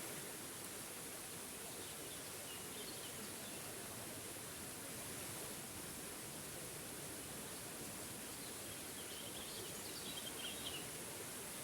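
Small forest waterfall rushing steadily, with faint bird chirps twice, about three seconds in and again near the end.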